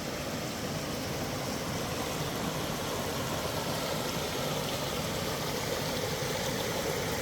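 Stream water rushing steadily over rocks, an even hiss with no breaks.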